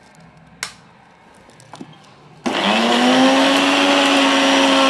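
Electric mixer grinder switched on about halfway in, its motor whine spinning up quickly to a steady high speed as it grinds coriander, green chillies and yogurt into chutney. A sharp click sounds about half a second in.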